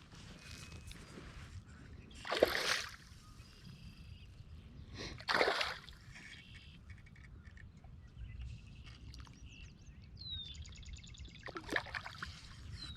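Water splashing and sloshing at a fishing kayak, with two brief louder splashes. Near the end a bird gives a short falling whistle and a quick high trill.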